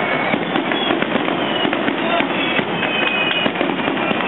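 Fireworks going off in a dense, continuous crackle of many small rapid bursts, with short high whistling tones cutting through here and there.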